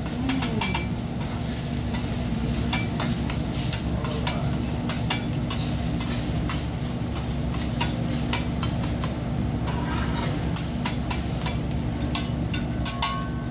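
Fried rice sizzling in butter on a hibachi flat-top griddle, with frequent quick clicks and scrapes of metal spatulas tossing and chopping it on the griddle.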